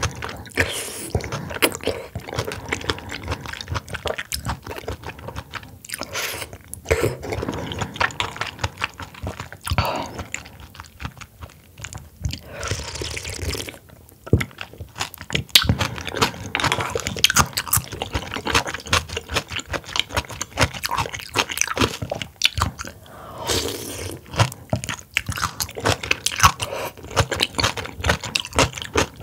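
Close-miked chewing and biting of oysters and oyster cold soup, full of wet mouth clicks, with a brief hiss about halfway through.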